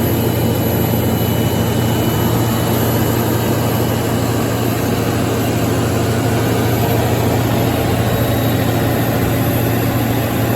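105 kW Kohler generator set with a John Deere diesel engine running steadily at constant speed, a loud, even drone with a strong low hum.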